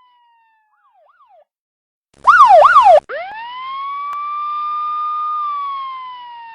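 Police car siren: a short, loud burst of fast yelp about two seconds in, cut off abruptly, then a wail that winds up quickly, holds, and slowly falls away.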